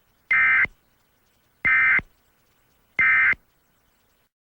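Three short bursts of Emergency Alert System SAME digital data tones, the End of Message code that closes an EAS alert. Each is a high-pitched buzzy chirp of about a third of a second, evenly spaced about one and a third seconds apart.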